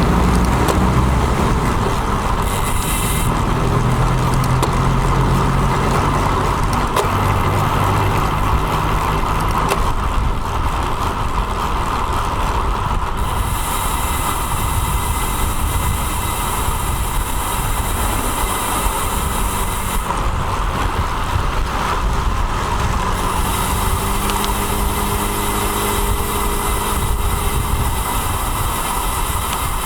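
Road traffic heard from a moving bicycle: a steady rush of road noise with motor vehicles passing. A vehicle engine's steady hum joins in for the last several seconds.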